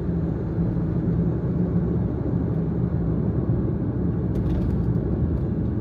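Steady low road and engine rumble inside a moving kei van's cabin.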